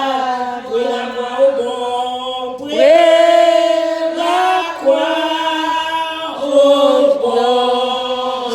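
Voices singing a slow French hymn without accompaniment, in long held notes that slide from one pitch to the next.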